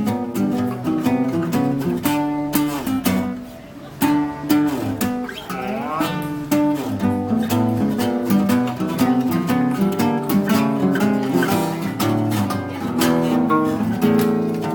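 Acoustic guitars playing an instrumental duet: a plucked melody over lower chords. There is a short lull just before four seconds in, then a few sliding notes.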